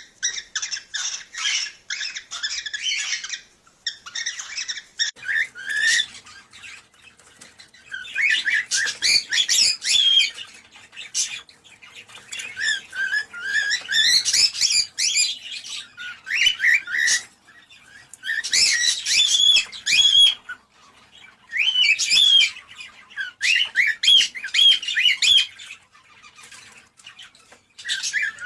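Cockatiel song: rapid chirping and warbling whistles in bursts of a few seconds with short pauses between them. It is the kind of song played to cockatiels to encourage mating.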